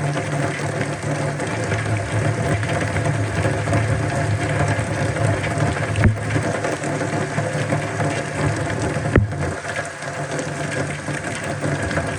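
Steady rain falling, with a low steady hum underneath it and two sharp knocks, one about six seconds in and another about three seconds later.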